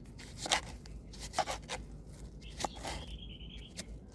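Chickens pecking at a honeydew melon: irregular sharp pecks with short tearing sounds from the flesh. A brief, wavering high call comes near the end.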